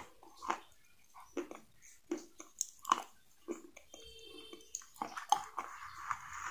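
Close-miked eating: irregular crisp crunches and chewing from a person biting into crunchy food. A faint high whine comes in about four seconds in.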